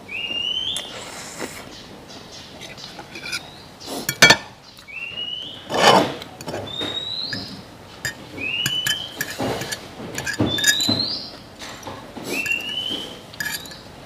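A bird repeating a short rising whistled call about every one and a half to two seconds, over clinks of a metal fork and spoon against bowls and plates; the loudest clinks come about four and six seconds in.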